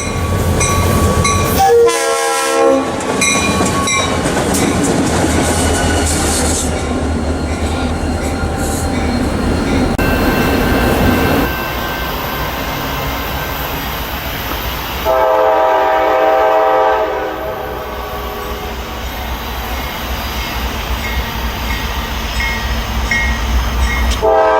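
Diesel freight train passing close by, with a steady rumble and rail noise throughout. The locomotive's air horn sounds briefly about two seconds in, again for about two seconds in the middle, and once more at the end.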